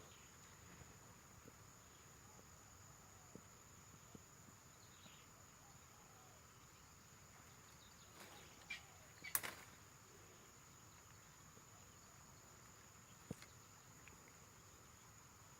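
Near silence with a faint, steady, high-pitched insect drone, like a cricket or cicada. A few soft clicks and rustles come about eight to nine and a half seconds in, and one more click near the end.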